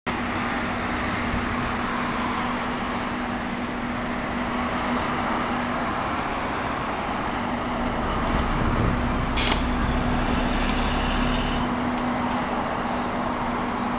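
Vacuum cleaner running steadily, a constant motor hum and hiss as it is pushed over paving stones. A single sharp knock comes about nine and a half seconds in.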